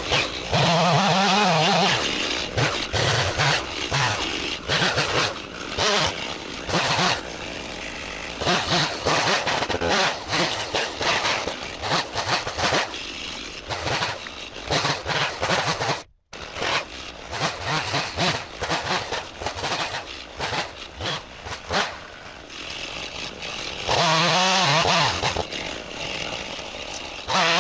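Chainsaw cutting through a log, its engine pitch rising and dropping repeatedly with the throttle. The sound cuts out abruptly for a moment about sixteen seconds in.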